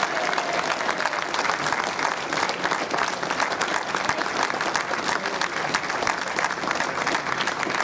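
Audience applauding steadily, many hands clapping at once, after the winners receive their prizes.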